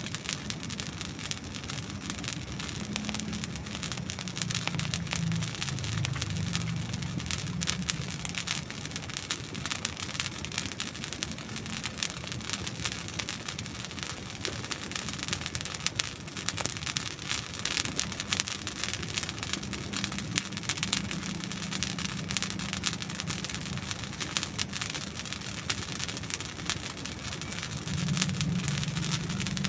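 Dry wood burning in a campfire, crackling steadily with many small sharp snaps and pops, over a low rumble that swells and fades.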